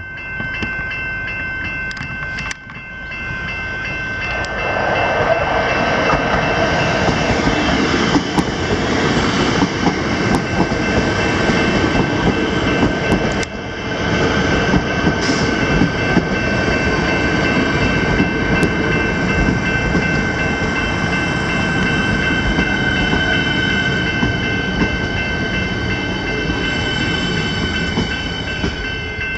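Level-crossing electronic bells ringing steadily while a train runs through the crossing; the train's rumble comes in loud about four seconds in and carries on, easing near the end.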